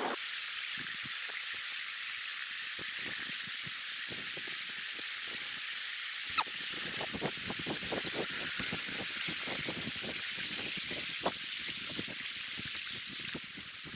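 Steady hiss of a flood-swollen river's fast current. About six seconds in there is a single click, followed by irregular low thumps.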